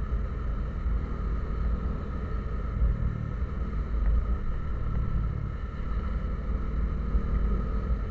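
A vehicle travelling on the road: a steady engine and road rumble, with faint steady whine tones above it.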